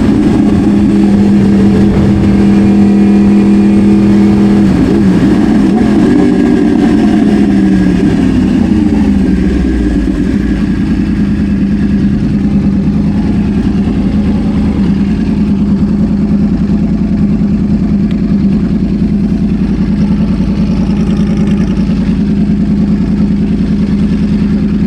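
Yamaha R1 inline-four motorcycle engine under way. It holds steady revs for about the first five seconds, then the revs fall away over about four seconds, and it then runs on steadily at lower revs.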